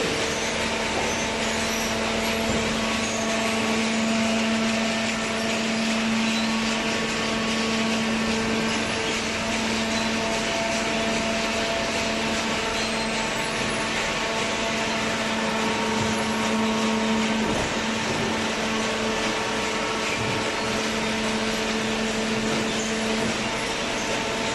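Automatic hydraulic waste-paper baler running: a steady machine drone of motor and hydraulic pump, with a humming tone that drops out near the end.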